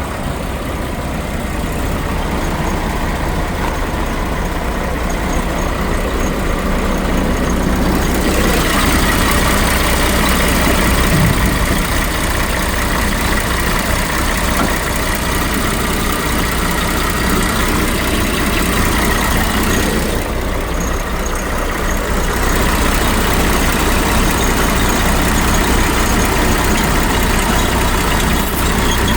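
Scania R420's 12-litre inline-six diesel truck engine running steadily, mostly at idle. Its sound gets brighter and a little louder from about eight seconds in, dips briefly near twenty seconds, then settles back.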